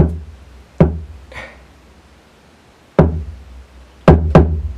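A programmed kick drum pattern played on its own from a hip-hop beat: five hard kicks at uneven spacing, each with a long deep bass boom after it. Two land in quick succession near the end.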